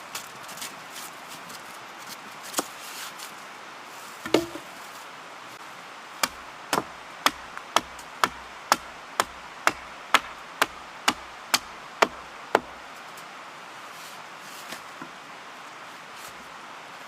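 Wood being chopped: a steady run of about fourteen sharp strikes, about two a second, starting about a third of the way in. A few lighter knocks and one heavier thud come before them.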